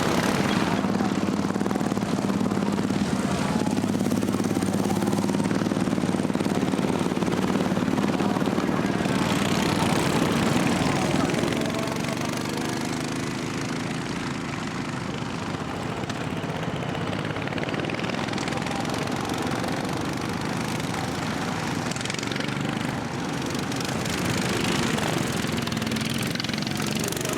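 Racing lawnmower engines running hard as mowers lap the track. A steady engine drone fills the first half, and the pitch slides as machines pass, about ten seconds in and again near the end.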